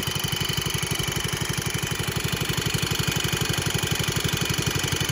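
Old garden tractor engine running steadily at idle, with an even, rapid firing pulse.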